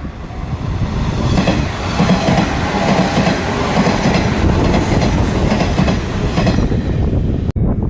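A Sanyo Electric Railway electric train passing at close range, its wheels clacking rhythmically over the rail joints. The sound cuts off suddenly near the end.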